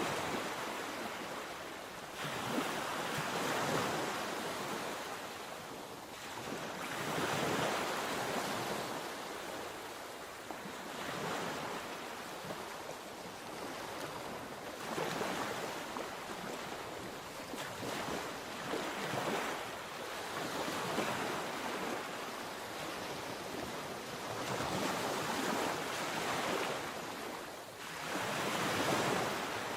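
Mediterranean sea waves breaking on the shore, the surf swelling and washing back every three to four seconds.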